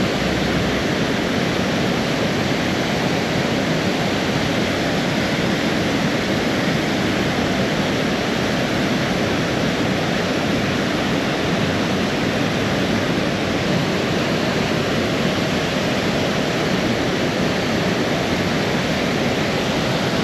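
Water pouring over a small waterfall on a stream, a steady, unbroken rush of water.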